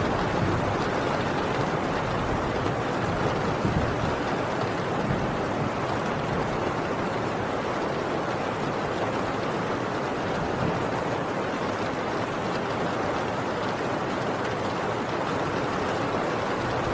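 Heavy rain on a tin roof, a steady dense hiss, with a low rumble swelling now and then in the first few seconds.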